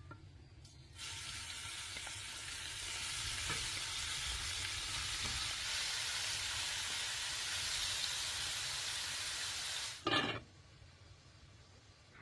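Food frying in hot oil: a steady sizzle that starts suddenly about a second in and cuts off near the end, followed by a brief, louder sound.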